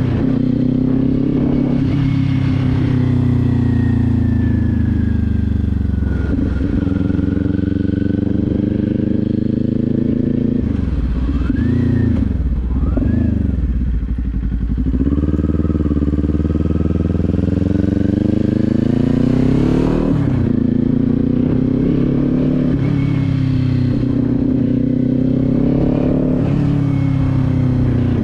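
Kawasaki Z400's parallel-twin engine and exhaust under way, the engine note steady at first, then dropping and climbing several times in quick succession about halfway through as the rider shifts and works the throttle. It then climbs steadily in pitch under acceleration, breaks off at a shift about twenty seconds in, and rises and falls a few more times.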